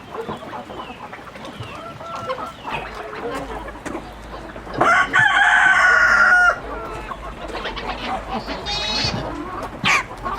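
Chickens clucking, with a rooster crowing once about five seconds in, loud and lasting about a second and a half.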